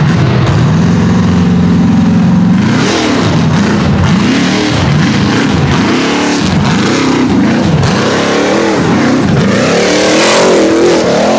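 Off-road race vehicle's engine held at a steady pitch for about two seconds, then revved up and down again and again in quick throttle blips, reaching its highest revs near the end.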